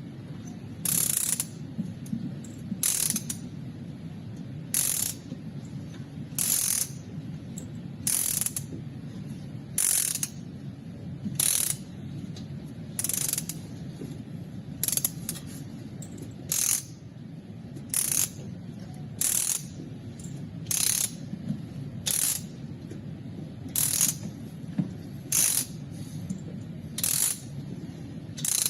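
Ratchet wrench being worked, its pawl clicking in short bursts about every one and a half to two seconds, over a steady low hum.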